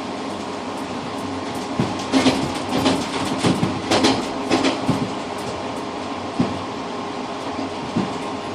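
Passenger train running at speed, heard from inside the rear cab vestibule: a steady rumble with a faint hum. From about two seconds in, the wheels knock sharply over the track for about three seconds, followed by two single knocks.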